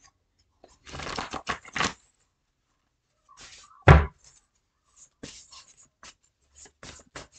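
Rustling and clicking of tarot cards being handled and shuffled, with one loud thump about four seconds in.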